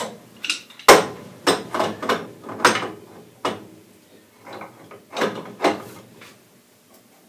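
Metal tool clanks and clicks: a spud wrench being handled and fitted onto a gas valve's flats on its pipe, about nine irregular sharp knocks that thin out in the last second or two.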